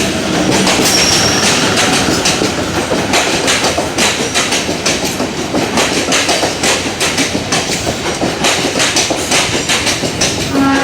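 MEMU electric multiple-unit train running past on the rails, its wheels clattering over the rail joints in a steady run of clicks over a rumble.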